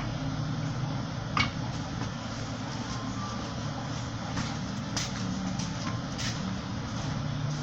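Steady low rumble with a few short, sharp knocks, the loudest about a second and a half in.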